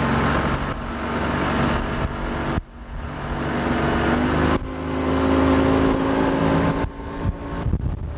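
A boat's two-stroke outboard motor running under way, a steady droning note. It drops off sharply about two and a half seconds in, comes back up after about two seconds, and turns rougher and choppier near the end.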